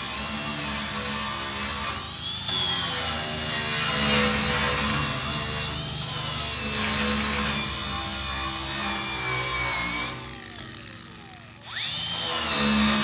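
Cordless 4.5-inch angle grinder fitted with a strip disc, running against the rusty steel top of a welding table to strip the rust, its whine dipping and recovering as it is pressed in. About ten seconds in it winds down, then spins back up a second and a half later.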